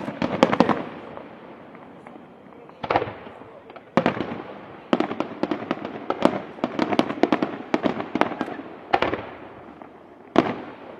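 Fireworks display shells bursting in a string of sharp bangs that echo away. A quick cluster comes at the start and a faster run of bangs comes through the middle, ending with one loud single burst near the end.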